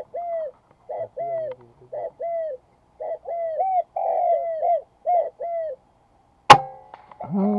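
Repeated short arching bird calls, several a second, then a single sharp crack of an air rifle shot about six and a half seconds in.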